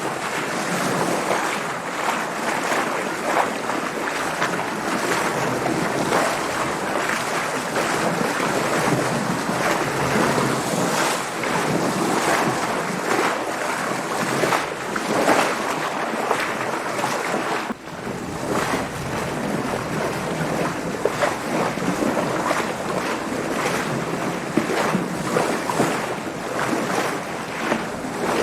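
Water splashing and washing against a sailing boat in waves, with wind, in a continuous rush that swells and eases irregularly. The sound dips briefly about two-thirds of the way through.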